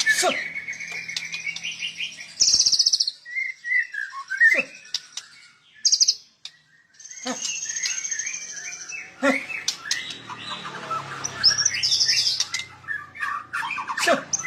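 A songbird singing a varied song of chirps, rapid high trills and gliding whistled notes, pausing briefly about six seconds in before resuming.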